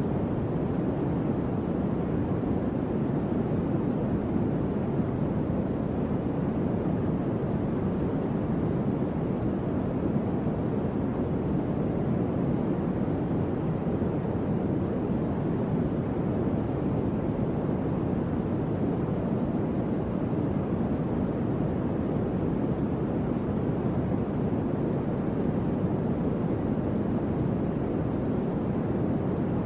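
Electric fan running steadily: a soft, even whoosh of moving air, mostly low and mid in pitch, with no hum or rattle and no change in level.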